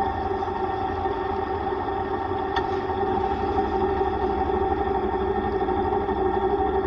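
Yamaha YTX125 motorcycle's single-cylinder engine running at a steady speed while riding, with a low road rumble underneath.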